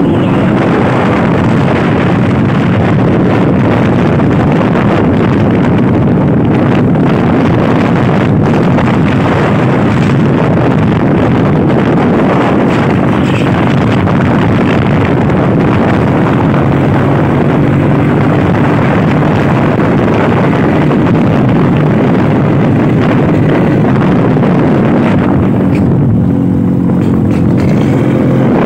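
Vintage Vespa scooter's two-stroke engine running steadily while riding, with wind noise on the microphone. Near the end the wind noise eases and the engine note stands out more.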